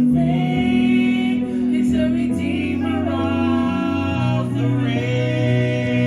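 Gospel song: voices singing long held notes that glide between pitches, over steady instrumental accompaniment.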